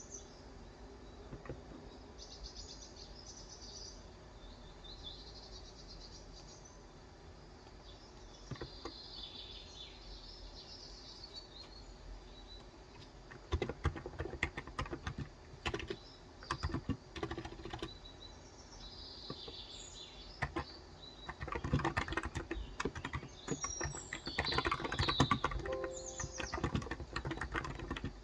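Birds chirping, then typing in quick bursts on a Cox Endeavor electro-capacitive (Topre-style) 35 g tenkeyless keyboard, starting about halfway through, while the birds chirp on over it.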